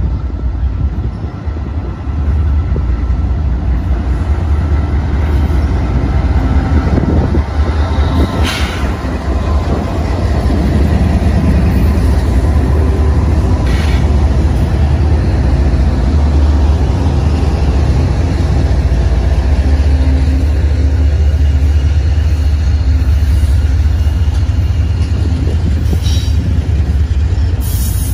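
Several Union Pacific diesel freight locomotives pass close by, a steady heavy low rumble of engines and wheels that gets louder about two seconds in. Two sharp clicks come about eight and fourteen seconds in.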